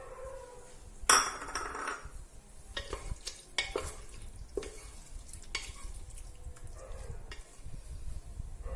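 Ginger-garlic paste going into a pan of frying tomatoes, sizzling loudly as it lands about a second in, then being stirred, the utensil scraping and clicking against the pan.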